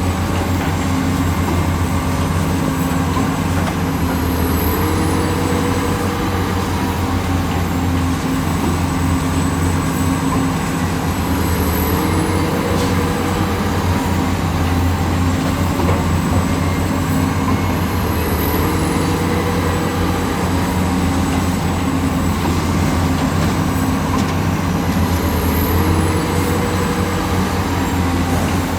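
Heavy diesel engine of a working excavator running steadily, its note stepping up briefly about every seven seconds.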